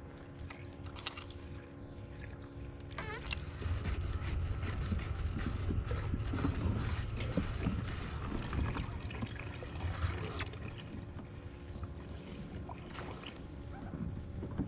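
Water sloshing and trickling around a fishing kayak, with scattered knocks and clicks of handling; it grows louder for several seconds in the middle, with a low rumble.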